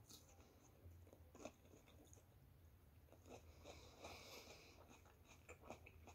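Faint chewing of a piece of batter-fried sweet pepper: a bite, then soft, irregular crunching and mouth clicks.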